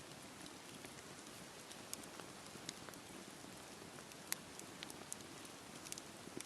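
Steady rain hiss over a campfire, with scattered sharp crackles and pops from the fire. One louder pop comes about four seconds in.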